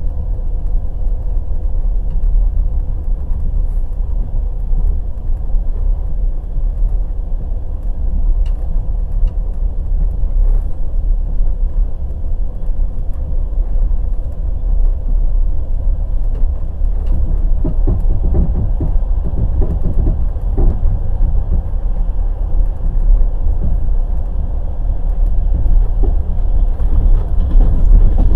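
Passenger train running at speed: a steady low rumble from the wheels on the rails, with scattered sharp clacks of the wheels over rail joints, several in quick succession about two-thirds of the way in.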